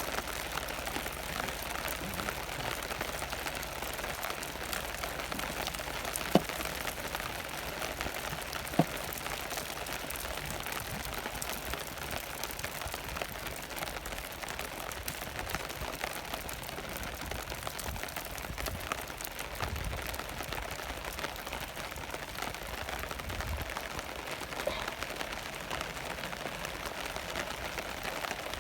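Steady rain pattering, a dense hiss of fine drips. Two sharp knocks stand out about six and nine seconds in.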